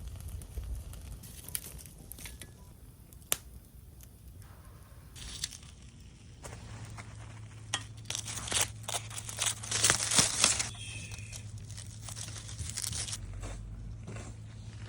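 Dry, papery material being crumpled and torn, loudest a little past the middle, with a few sharp snaps and clicks before it.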